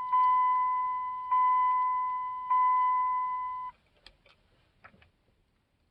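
A vehicle's electronic warning chime: one steady dinging tone about every 1.2 seconds, each ding fading, stopping about 3.7 seconds in and followed by a few faint clicks.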